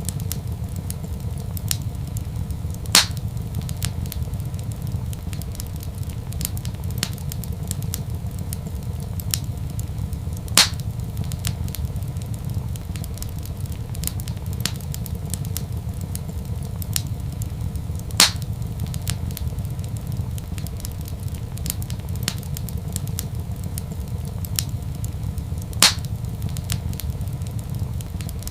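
Wood fire crackling in a fireplace: a steady low rumble under frequent small crackles, with four louder pops spaced evenly through the stretch.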